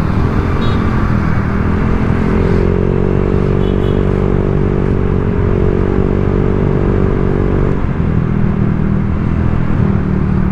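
Honda Vario 125 scooter's single-cylinder four-stroke engine running through an aftermarket standard-racing exhaust while riding. The note rises as the throttle opens about two and a half seconds in and falls back near the end, staying mellow and bassy rather than shrill.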